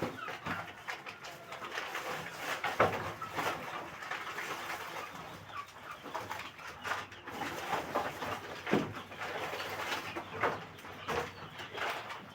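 A flock of kampung chickens clucking and calling in many short, overlapping calls, with a couple of sharper knocks about three seconds and nine seconds in.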